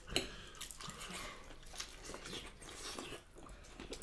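Quiet, close-up chewing of a meal of pork chop, vegetables and salad, with irregular wet mouth smacks and small clicks.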